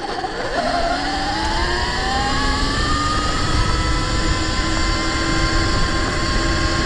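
Electric dirt bike's motor whine rising in pitch as it accelerates in sport mode, then holding steady at top speed from about three seconds in, over a constant low rumble.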